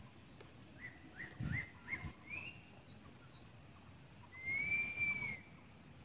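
Bird calls: a quick run of short rising chirps about a second in, then one longer arched whistle near the end. Two low thumps come among the chirps, over a faint steady outdoor hiss.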